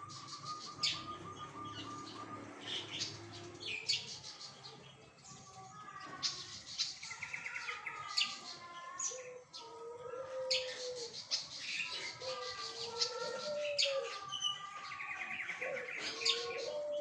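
Flycatcher (sikatan) singing non-stop: rapid high trills and chirps, mixed with lower whistled, gliding phrases that grow stronger from about halfway through.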